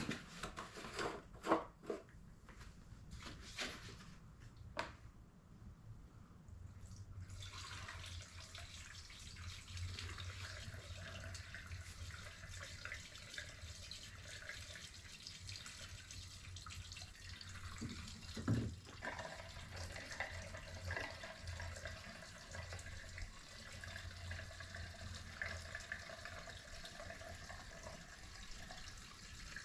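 Gasoline being poured into a small dirt bike's fuel tank: a steady faint trickling of liquid. A few clicks and clunks of handling come before the pour starts, and there is a single knock partway through.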